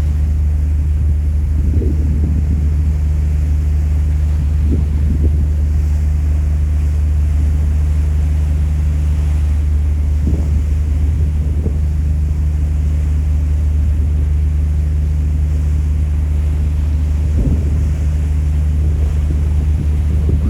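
Ferry engine running with a steady low drone, along with the rush of wind and water. Wind is buffeting the microphone.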